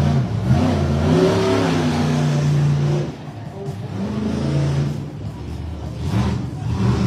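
Monster truck engine revving hard, its pitch climbing and falling as the throttle is worked. It is loudest for the first three seconds, eases off, then revs up again twice toward the end.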